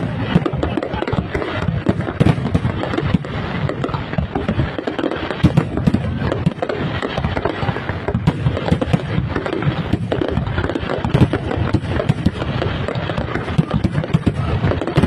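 A fireworks display's shells bursting in a dense, continuous barrage of overlapping bangs and crackles.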